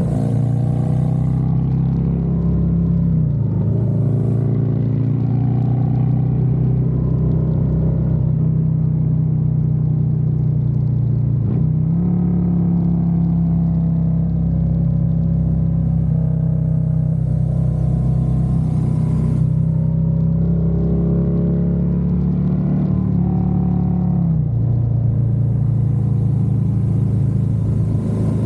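Harley-Davidson Road Glide's V-twin engine running under way, heard from the rider's seat. The engine note is steady, and its pitch shifts a few times, about three, twelve and twenty-four seconds in.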